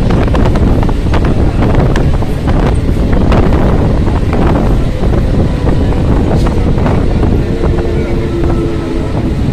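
A moving electric local train heard at an open window: a loud, steady rumble of the coach and wheels, with rapid clicks of the wheels on the rails and wind buffeting the microphone. A brief steady whine comes in near the end.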